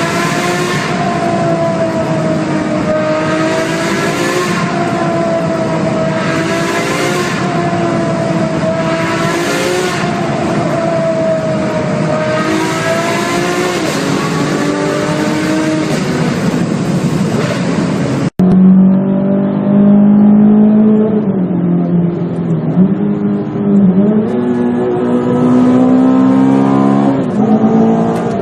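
A supercar engine revving in a tunnel, its pitch rising and falling with a surge about every two seconds. About two-thirds of the way through, the sound cuts abruptly to a different, deeper-pitched engine revving up and down.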